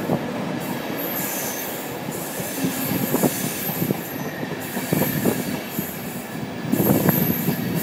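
East Coast class 91 electric train drawing into the station: steady wheel and rail rumble with an on-and-off high-pitched squeal and a few clicks over the rails, the clicking busier near the end.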